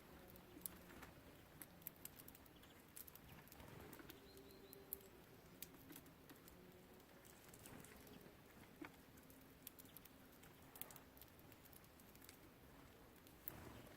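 Faint, irregular light tapping and clicking of small birds (tits, sparrows, greenfinches) pecking seed and hopping about on a wooden bird feeder, with a brief faint chirp about four seconds in.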